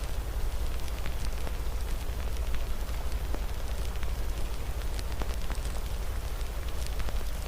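Wood fire crackling with irregular sharp pops over a steady hiss of rain and a low rumble.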